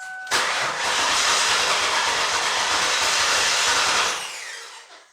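2005 Ford Taurus's 3.0-litre V6 cranked on the starter for about four seconds without catching, then dying away: the car won't start.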